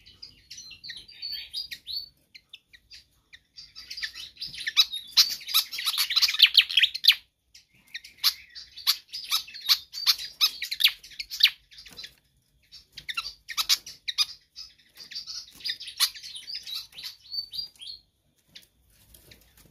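Fantail (sikatan kipas) singing loudly and insistently: phrases of rapid high chirps and twitters broken by short pauses.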